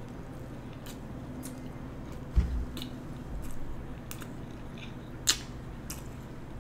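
A person chewing a mouthful of veggie burger with her mouth closed, with soft wet mouth clicks. A low thump comes about two and a half seconds in and a sharp click a little after five seconds.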